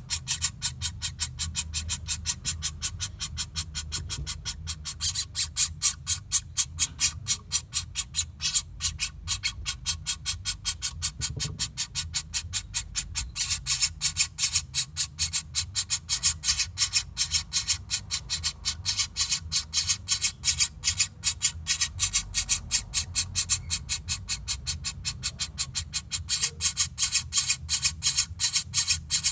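Recorded call of a flameback woodpecker (pelatuk bawang) played as a tutoring track: a rapid, even run of sharp high notes that carries on almost without a break, over a low hum.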